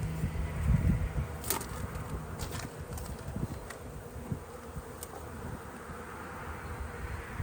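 Honey bees buzzing around an opened hive, with a few sharp clicks of hive parts or tools being handled.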